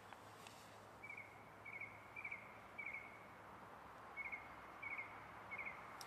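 A small bird calling faintly in a forest: a short, high, slightly trilled note repeated seven times about every half second, with a pause of about a second and a half in the middle.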